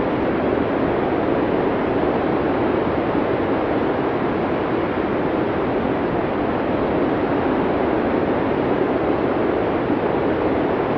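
Steady blizzard wind ambience: an even, unbroken rush of wind noise without distinct gusts.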